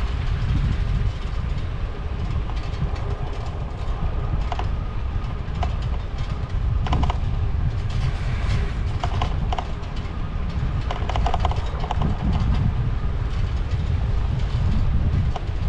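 Wind rumbling on the microphone of a moving bicycle ride, with scattered light ticks and rattles from the bike.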